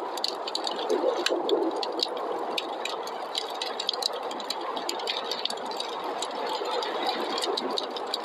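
Wood fire in a fireplace crackling, with many sharp irregular pops, over a steady rushing snowstorm wind.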